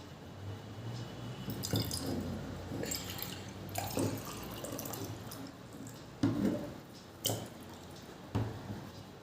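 Water being poured into a glass, followed by a few sharp clinks and knocks of the glass and jug being handled and set down.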